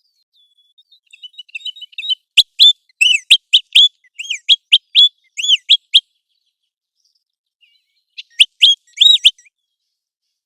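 American golden plover calling: faint notes build into a fast run of about a dozen loud, high whistled notes, each arching in pitch. After a pause of about two seconds comes a second, shorter group of four or five notes.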